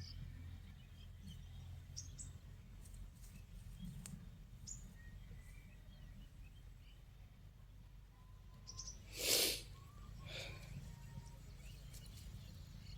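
Quiet outdoor ambience with a steady low rumble and scattered faint bird chirps. A short, loud, noisy burst comes about nine seconds in, and a softer one about a second later.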